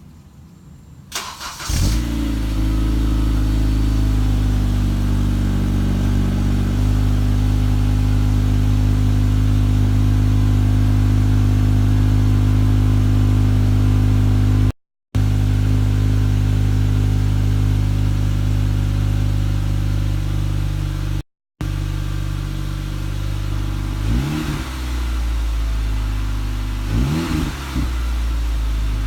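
2013 Honda Civic Si's four-cylinder engine cold-starting: a click, a short crank, then it catches about two seconds in and settles into a steady, fast cold idle. Near the end the throttle is blipped three times, the revs rising and falling quickly.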